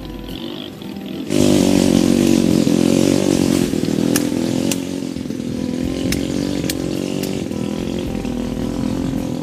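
A small petrol engine on a power tool starts running about a second in and keeps going at high, steady revs. It is loudest for the first couple of seconds, then settles slightly lower.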